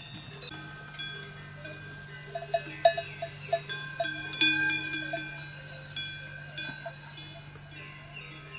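Livestock bells clanking irregularly, many short ringing strikes at different pitches, with a louder cluster of strikes a few seconds in.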